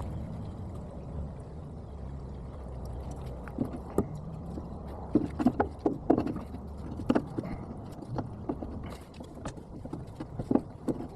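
A low steady rumble, then a run of irregular sharp knocks and clanks from about a third of the way in, the kind made by tools striking and handling metal parts.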